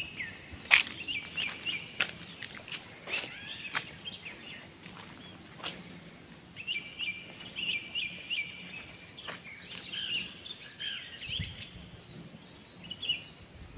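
Several small birds chirping in quick, short repeated calls, with a high buzzy trill twice and a few scattered sharp ticks.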